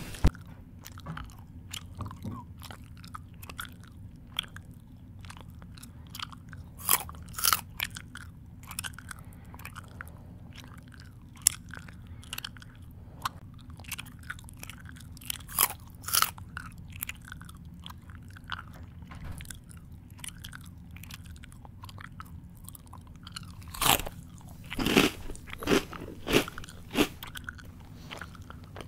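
Close-up mouth sounds of someone chewing crunchy food: irregular crisp crunches, with a run of louder crunches about three-quarters of the way through.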